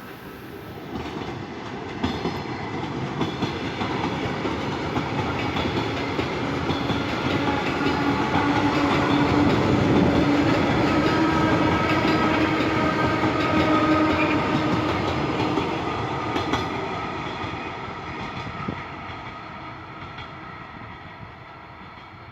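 A train passing along the line, its sound building up, peaking mid-way and fading as it goes away, with a steady whine running through it.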